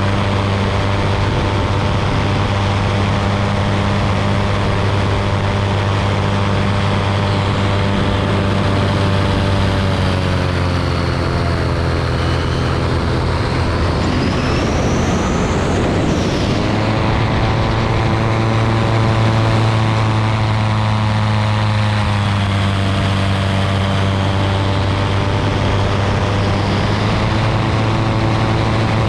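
Ultralight aircraft's propeller engine droning steadily in flight, with wind noise over it. The engine note dips about ten seconds in, rises again around seventeen seconds, and eases slightly a few seconds later.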